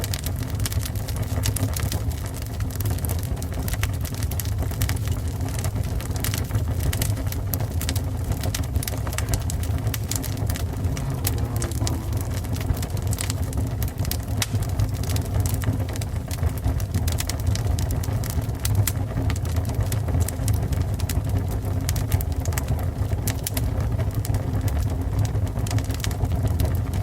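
Fire burning: a steady low rumble with dense, irregular crackles and pops throughout.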